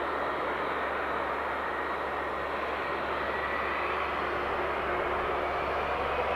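Jet engines of a Boeing 757-200F freighter running as it departs: a steady rushing roar with a faint whine that starts to climb in pitch near the end.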